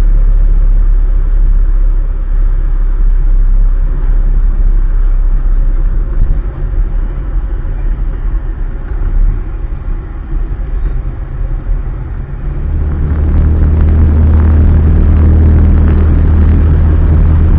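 Cessna 152's four-cylinder Lycoming engine and propeller running, heard in the cockpit as a loud, steady low drone. Through the middle the sound wavers and drops a little. About 12 seconds in it turns louder and steadier, with a strong low hum.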